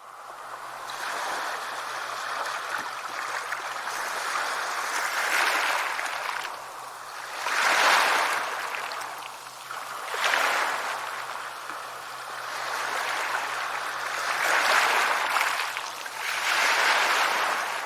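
Sea waves washing onto a shore, swelling and falling back about every two to four seconds, with about five swells.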